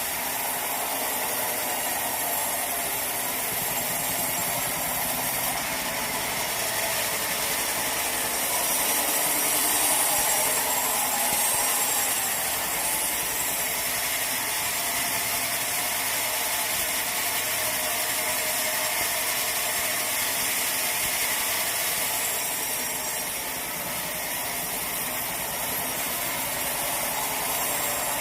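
Sawmill saw running steadily with a hissing, grinding noise, swelling a little about nine to twelve seconds in.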